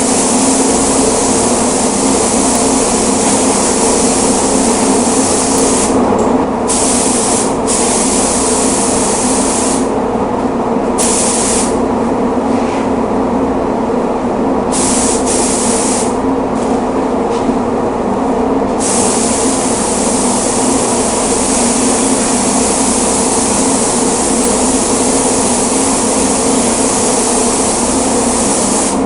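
Paint spray gun hissing in long passes, the spray stopping and starting several times as the trigger is released and pulled again between about six and nineteen seconds in. Under it runs a steady mechanical drone.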